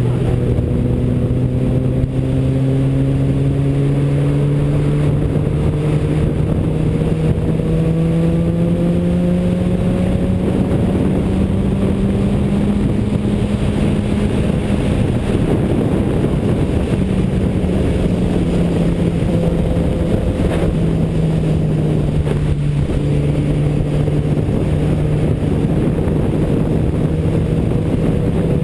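Car engine droning under steady load, its pitch rising slowly over about fifteen seconds and then dropping slightly twice, over loud, steady road noise.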